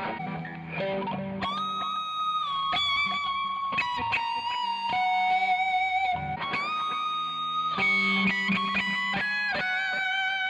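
Epiphone electric guitar playing a lead line of single sustained notes, several of them bent upward in pitch.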